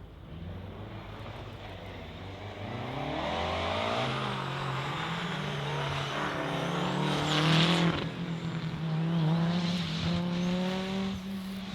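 Rally car engine under hard acceleration, its pitch climbing and dropping through several gear changes, growing louder to a peak about seven to eight seconds in.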